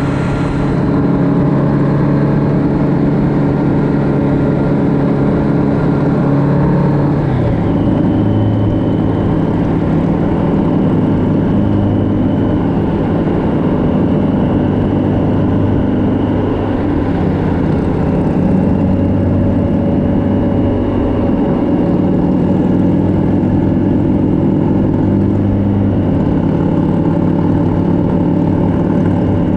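Motorcycle engine running steadily while under way. Its pitch steps down about seven seconds in and then holds.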